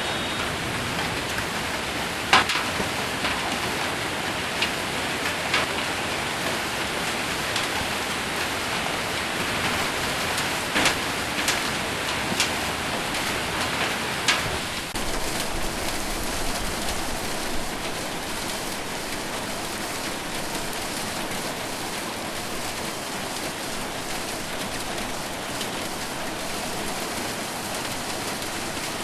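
Heavy rain with hail on a metal roof: a steady hiss of rain with sharp, separate strikes of hailstones, several in the first half, the downpour easing a little in the second half.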